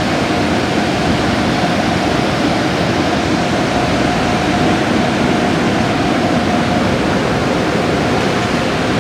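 Car wash equipment running: a steady, loud rushing noise with a faint steady hum.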